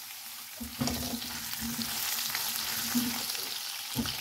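Diced potatoes sizzling in hot mustard oil in a nonstick wok, with a spatula stirring and scraping them through the pan. The hiss grows louder from a little under a second in, once the stirring starts.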